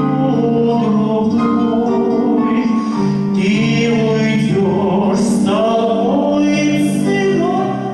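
Slow Russian romance performed live: a male lyric tenor singing long held notes over sustained instrumental accompaniment.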